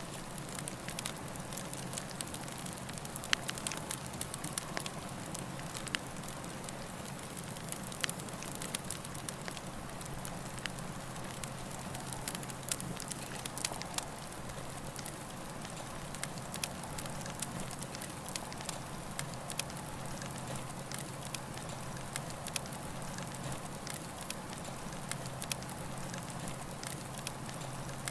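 Campfire burning with a steady hiss and frequent sharp crackles and pops.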